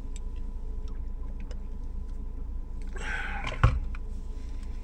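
Steady low hum inside a parked car's cabin. About three seconds in, a brief hiss ends in a single sharp click.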